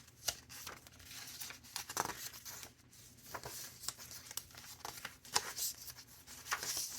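Paper pages of a chunky handmade junk journal being turned one after another: irregular rustles, crinkles and light flaps of the sheets.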